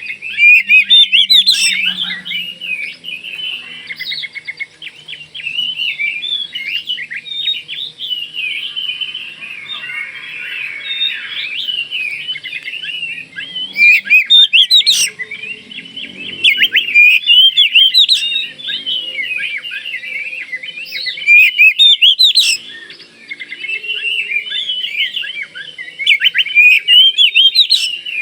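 Oriental magpie-robin of the Kalimantan (Bornean) form singing without pause: a varied stream of quick, sliding phrases, broken every few seconds by louder runs of rapid notes.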